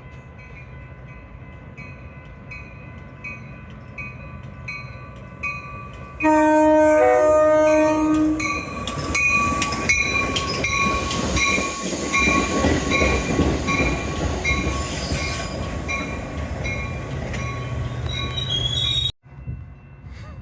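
A bell rings steadily about twice a second as a Metra commuter train approaches. The train's horn then sounds one chord for about two seconds, the loudest sound here. The train then rumbles in along the track while the bell keeps ringing, and the sound cuts off sharply near the end.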